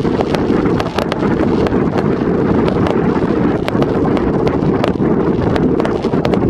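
Fireworks crackling in many sharp, irregular pops over a heavy, steady rumble of wind buffeting the microphone.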